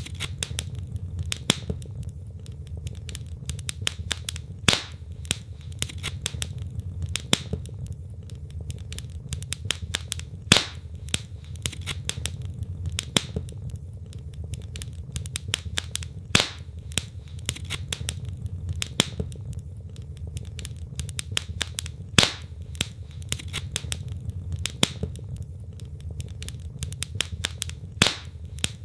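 Wood fire burning in a fireplace: a steady low rumble of flames with irregular crackling of the logs and a few louder pops.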